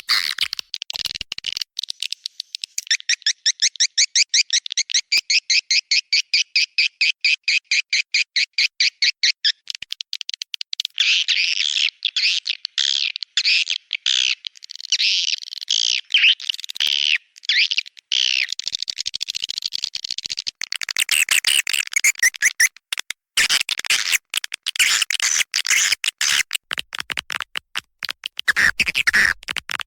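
Swiftlet calls played as a nest-house lure: high chirps, first a fast, evenly spaced chirping trill, then from about a third of the way in a denser, irregular twittering chatter.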